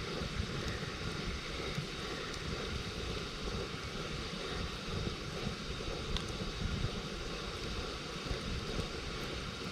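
Wood campfire burning: a steady low rush with a few faint crackles.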